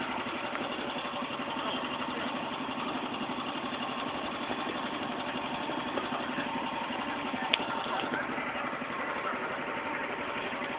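Engine of a small ride-on train idling steadily, with a fast even chug, while the train waits to set off; a single sharp click about seven and a half seconds in.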